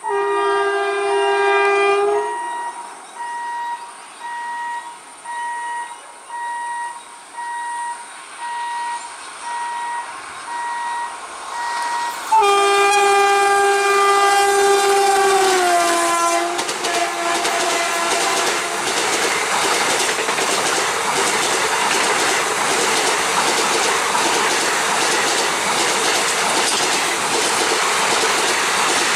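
WAP-4 electric locomotive's horn: a held blast, a string of short, fainter toots about once a second, then a long loud blast about twelve seconds in whose pitch drops as the locomotive passes. After that, the express's coaches rush past with a steady rolling clatter of wheels on rail joints.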